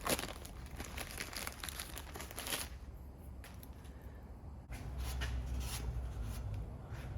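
Crinkling and tearing of packaging for about the first three seconds, as a new exhaust seal is unwrapped, then scattered light handling noises. A low steady hum sets in about five seconds in.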